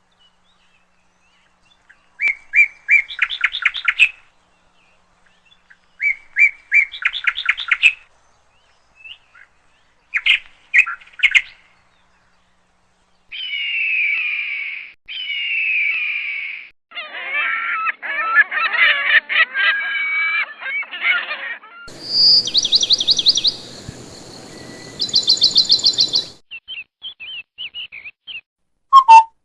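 A string of different birds' calls and songs, one after another with abrupt changes between them: repeated trilled chirps, then two long falling whistles about halfway through, a busy tangle of calls, and fast trills over a hiss near the end.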